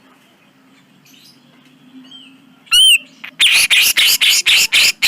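Cucak jenggot (grey-cheeked bulbul) singing: a single loud whistled note with a wavering pitch about three seconds in, then a fast run of harsh, rasping notes, about four a second. Before the whistle there is only a faint low hum.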